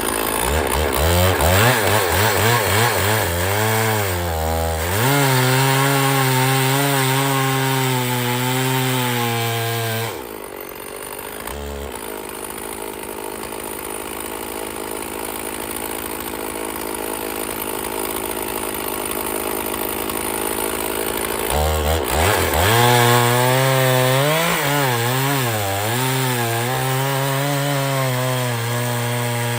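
Stihl two-stroke chainsaw at full throttle cutting through a firewood log, its pitch wavering as the chain bogs and recovers in the wood. About ten seconds in it drops to a quieter, even sound for some ten seconds, then revs up and cuts again.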